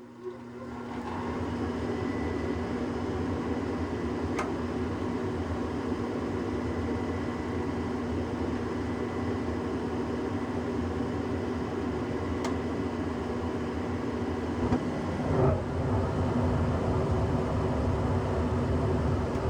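A 1994 Tempstar gas furnace starting up: the draft inducer fan spins up over about a second and runs steadily with a hum, with two light metallic ticks. About 15 s in, a soft thump and a louder low rumble come in as the gas burners light.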